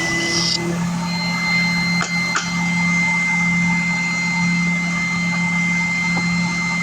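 Electric power sander running steadily with a constant hum, sanding the edges of CNC-cut parts; a higher scratchy hiss stops just after the start, and two light knocks come about two seconds in.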